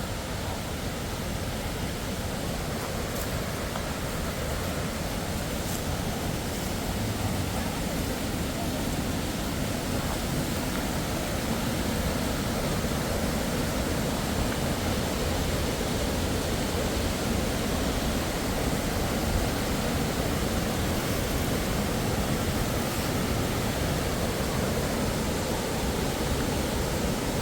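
Waterfall rushing: a steady rush of falling water, growing a little louder about a third of the way through.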